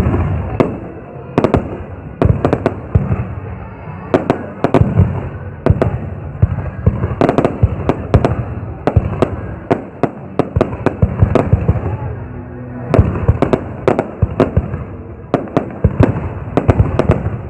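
Aerial fireworks exploding: a rapid, irregular string of sharp bangs, each trailing off in an echoing rumble, coming in denser volleys at times.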